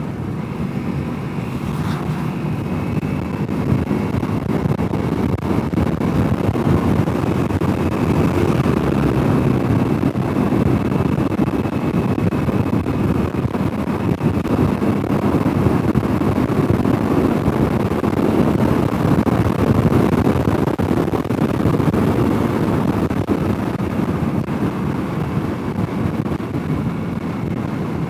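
Honda CRF300L's single-cylinder engine running at road speed, with wind rushing over the helmet-mounted microphone; it grows somewhat louder a few seconds in and holds steady.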